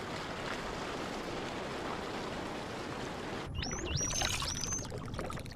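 Even underwater rushing noise, then about three and a half seconds in, dolphin whistles: three rising glides over a fast train of echolocation clicks.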